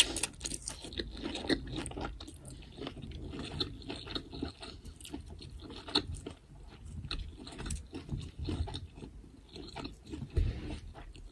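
A person chewing and biting food close to the microphone, with irregular crunchy clicks throughout and a sharp loud bite right at the start.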